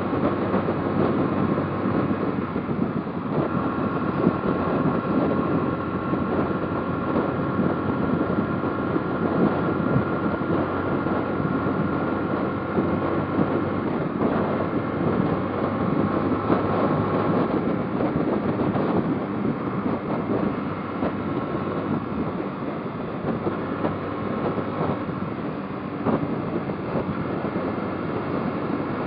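Motorcycle ridden at a steady pace: engine running under road and wind noise on the microphone.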